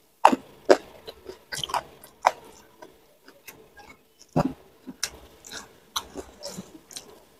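A person eating close to the microphone: wet chewing and lip smacks with irregular sharp crunches, the loudest just after the start, at about two seconds and a little past four seconds.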